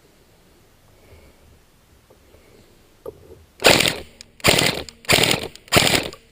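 Electric airsoft gun firing four short full-auto bursts in quick succession, starting a little past halfway in.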